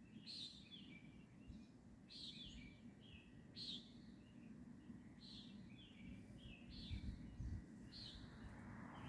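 A bird chirping in the dark, a short high call repeated about once a second, each call trailing off into a lower note. The calls are faint over a steady low background hiss.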